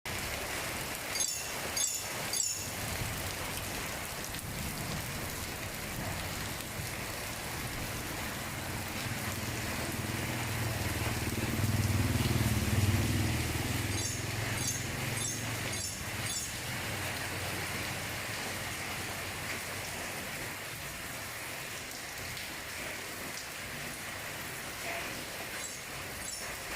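Steady rain falling. A low rumble swells and fades near the middle. A few sharp taps come in small clusters near the start and again later.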